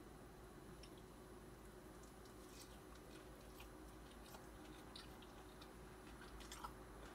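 Faint chewing of crisp fried sweet potato toast: soft scattered crunches and mouth clicks starting about two and a half seconds in, over quiet room hum.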